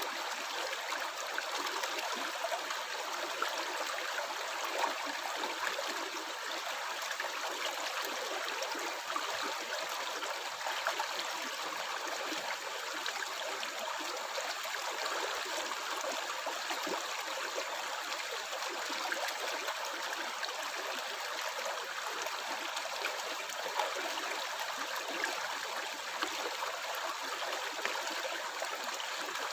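A stream of running water gurgling and trickling steadily, with no pauses or surges.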